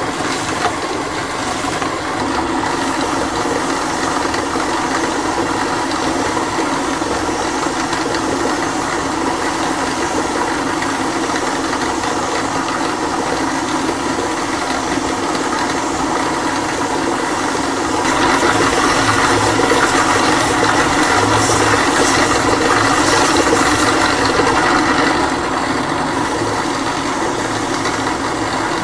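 Woodworking machine running steadily with a constant hum and hiss. For several seconds about two-thirds of the way through, it gets louder and harsher, then settles back.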